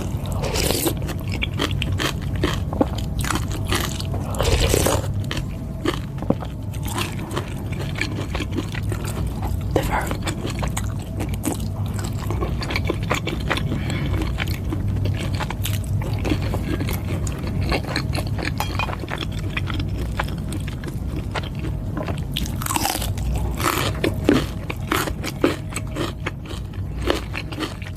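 Close-miked eating of Thai boat noodle soup: chewing and biting with crunchy bites and many small mouth clicks, plus a few longer louder bursts about five seconds in and again near the end.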